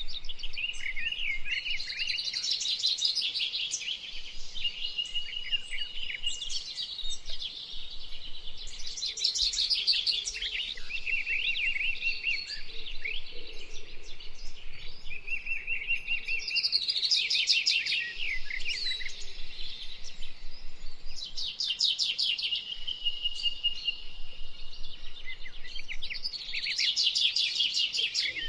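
Several songbirds singing at once in an early spring dawn-chorus style, overlapping phrases and chirps with louder, busier bursts of song every few seconds and some steady trilled notes between them.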